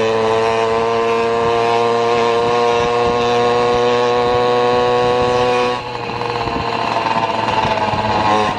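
Vehicle engine running at a steady pitch with a steady hum, heard while travelling; the hum cuts off abruptly about six seconds in, leaving quieter, rougher road and engine noise.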